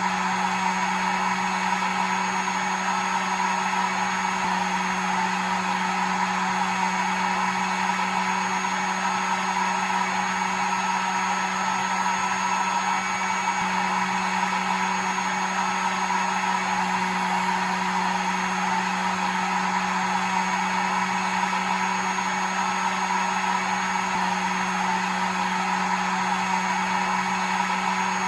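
Hair dryer running steadily: an even rush of blown air over a constant low motor hum, with no change in speed.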